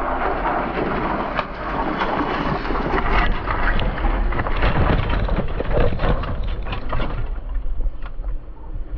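Wind buffeting a microphone while riding, with low rumble and many scattered knocks and rattles, easing off about seven seconds in.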